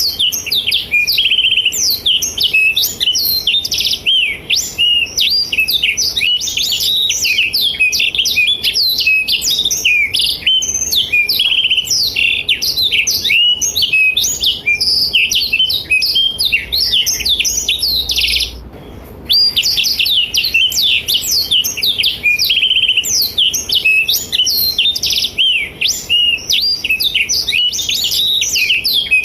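Black-throated canary (blackthroat) singing in full voice: a fast, unbroken stream of high chirps, trills and quick up-and-down whistles, with one short pause about nineteen seconds in.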